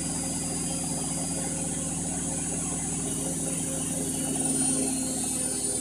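Indesit MTWC71252WUK washing machine on its 1200 rpm final spin: the drum spinning at high speed with a steady motor hum and a high-pitched whine. The whine eases down a little in pitch over the last few seconds.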